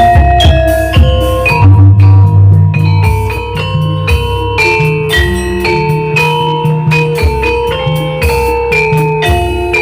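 Jaranan music from a gamelan-style ensemble: struck metallophones ringing in a quick, steady pattern over drums and deep sustained low tones, played loud.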